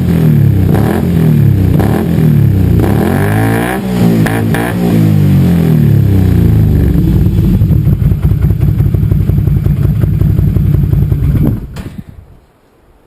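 Can-Am Renegade 500 ATV's V-twin engine through an HMF aftermarket exhaust, revved up and down repeatedly, then settling to a steadier run before it cuts off suddenly near the end.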